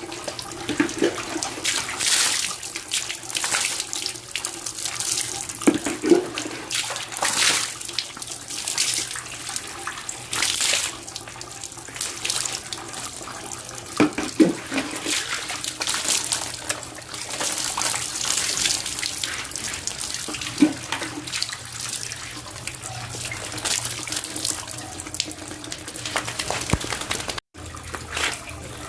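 Water running and splashing in uneven surges while a dog is bathed. The sound cuts out for a split second near the end.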